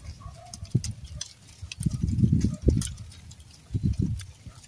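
Close-up chewing and crunching of a raw carrot stick: quick, rough mouth noises with crisp clicks, in a longer bout about two seconds in and a shorter one near the end.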